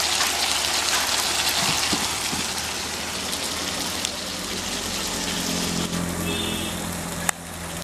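Plantain curry frying in an aluminium pot on a gas stove: a steady sizzling hiss, broken by a click near the end.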